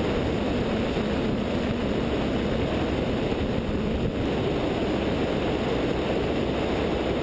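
Light aircraft in flight: the steady drone of its 100-hp Continental O-200 engine and propeller mixed with wind rush, heard from a camera on the wingtip.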